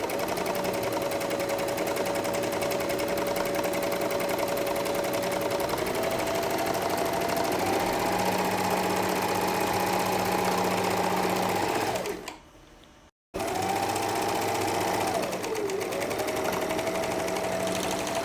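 Singer overlock (serger) sewing machine running steadily in a test sew after its cutting blades were refitted, speeding up in two steps, stopping about twelve seconds in, then running again with a brief slow-down. It runs evenly, which the owner takes as the repair working.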